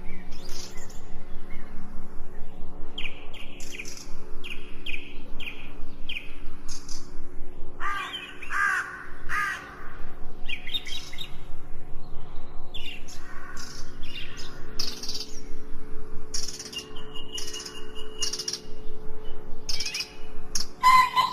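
Several birds chirping and calling in quick short notes, with a few lower, harsher calls in the middle, over a steady low drone.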